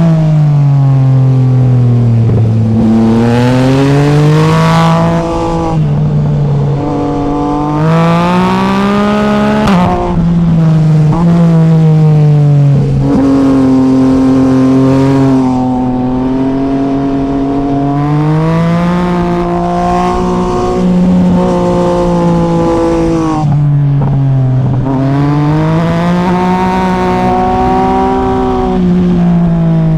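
Yamaha MT-09 SP's inline three-cylinder engine under way, with a rising and falling pitch throughout as it revs up, shifts or rolls off, and pulls again.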